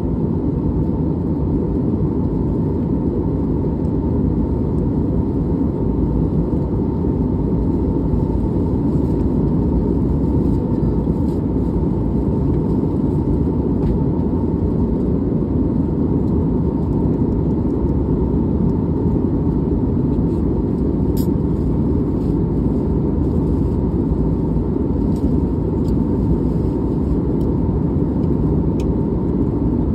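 Steady cabin noise of a jet airliner in flight: the low, even rumble of the engines and the air rushing past the fuselage, with a faint steady hum above it.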